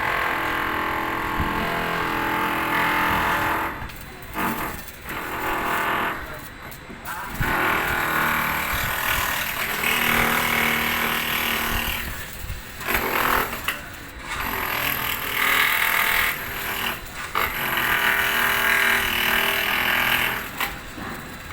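Electric arc welding on galvanized iron pipe: the arc crackles and sizzles steadily in several runs a few seconds long, broken by short pauses as the weld is stopped and restarted.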